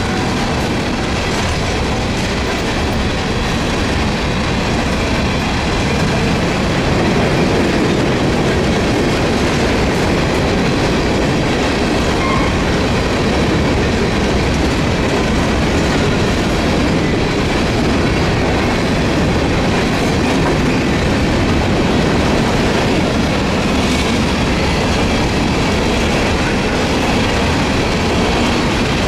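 Empty coal hopper cars of a long freight train rolling past: steel wheels running on the rails, loud and steady throughout.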